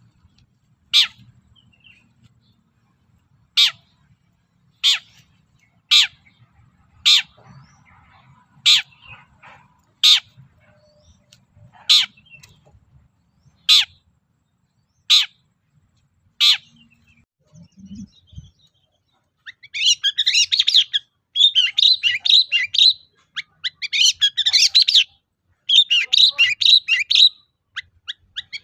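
Long-tailed shrike (cendet) giving a series of single sharp calls, about one every second or so, then, about two-thirds of the way through, breaking into bursts of rapid, dense song a second or two long.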